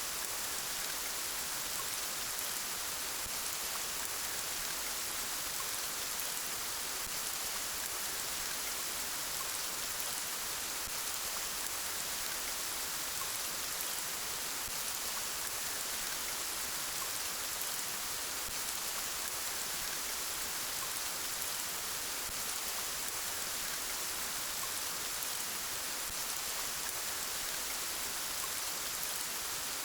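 Soft, steady rain falling, an even hiss that holds at the same level throughout.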